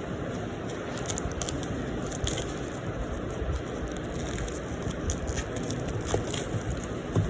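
Packaging being handled and unwrapped: scattered crackles and clicks, with a sharper knock near the end, over a steady low rumble.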